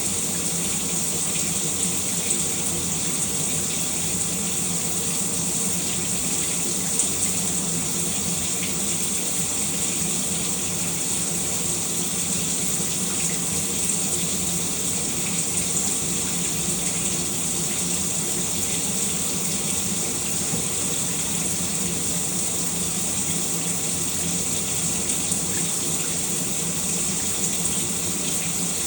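Shower running steadily, a continuous spray of water falling without a break.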